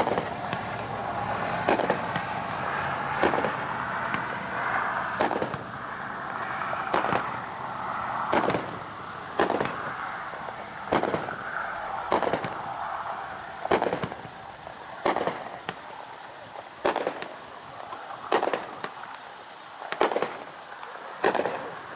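Tiger Tank, a 16-shot 200-gram consumer firework cake, firing its shots one after another: a sharp report about every second and a half, heard from far off, with a crackling hiss between the reports in the first half.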